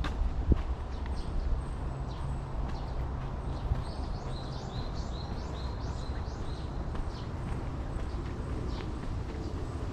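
Footsteps of someone walking, with a bird singing a quick run of short high chirps about four to six seconds in, over a steady low outdoor rumble.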